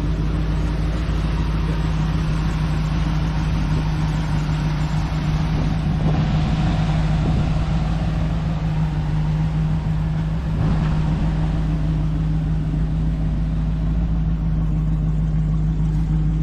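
1985 Chevrolet square-body pickup's engine idling steadily, a constant even hum.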